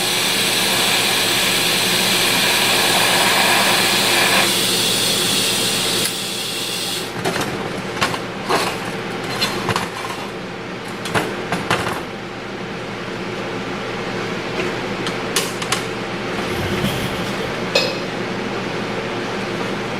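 Electric welding on steel exhaust pipe: a steady crackling hiss for about seven seconds, then a run of short welding bursts and clicks, over a steady background hum.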